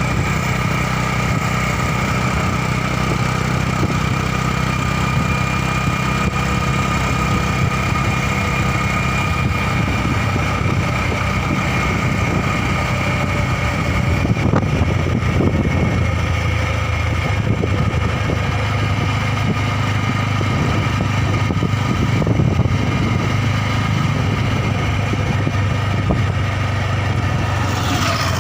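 Motorcycle engine running steadily, its low note changing about halfway through.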